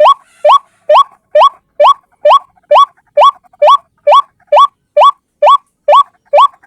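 A single white-breasted waterhen (ruak-ruak) calling over and over, a short rising note repeated about twice a second in an even, unbroken rhythm, as used for a bird-lure call.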